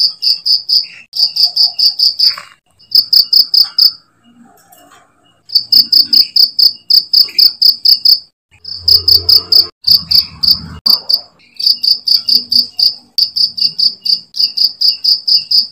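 Cricket chirping in fast, even pulses, about six or seven a second, with short breaks about four seconds in and just after eight seconds. A low rumble lies under it for a couple of seconds in the middle.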